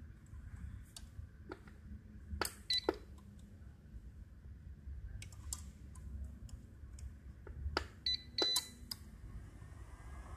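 APC UPS under test after a battery change: scattered sharp clicks of its buttons and relay, with a short high beep about two and a half seconds in and another, longer one at about eight seconds.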